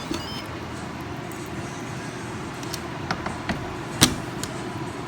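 A steady low hum with a few light clicks or knocks, the loudest about four seconds in.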